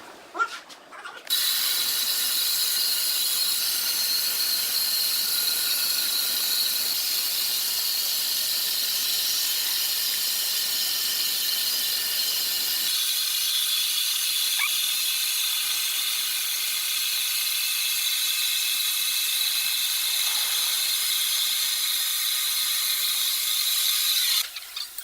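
Sawmill machinery running: a steady, high-pitched whine with hiss. It starts about a second in, and the low rumble drops away about halfway through.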